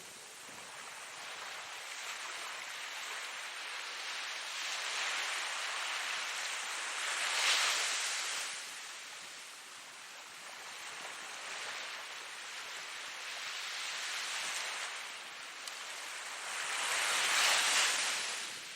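Ocean surf: waves rushing in and washing back in slow swells, with two louder surges, one about seven seconds in and one near the end.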